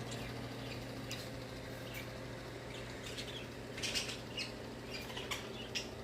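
Pet budgerigars giving a few short, scattered chirps, a small cluster of them about two-thirds of the way through, over a steady low hum.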